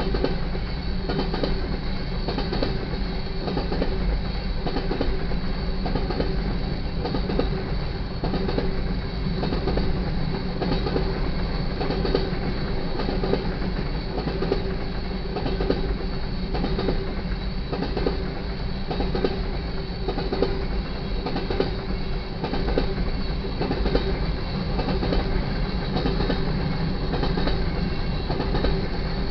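Freight train of covered grain hopper cars rolling past: a steady rumble with the clatter of steel wheels over the rail joints.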